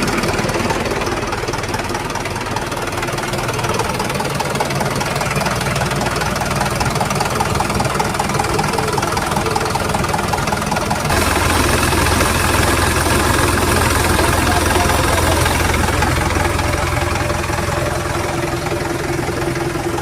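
Ashok Leyland 1012 truck's diesel engine running steadily on the bench or in the chassis after a start, getting louder and fuller about eleven seconds in.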